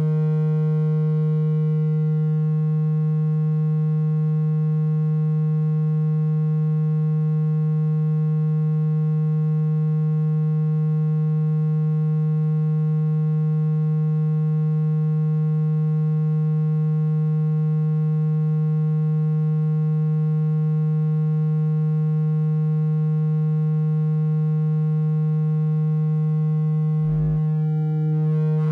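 Steady low electronic tone with many even overtones, held unchanged: a water-ejection sound meant to vibrate water out of a phone speaker. It breaks off for a moment near the end.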